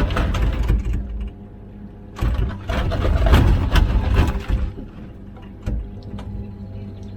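Komatsu PC16 mini excavator's diesel engine running steadily under hydraulic load while digging, with loud bursts of bucket scraping and rock clatter in the first second and again from about two seconds in, the loudest just past the middle.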